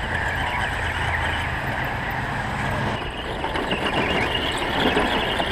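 Downtown street traffic noise: a motor vehicle engine runs close by, its low rumble steady until about three seconds in and then changing, under a general hiss of traffic.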